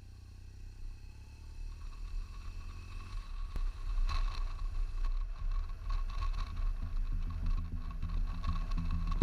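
Low vehicle engine rumble that grows louder over the first few seconds, with a steady thin whine above it.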